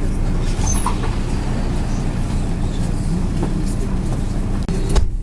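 Inside a moving MAZ 103 city bus: a steady low diesel engine drone with light rattles and clicks from the body, and a single knock near the end.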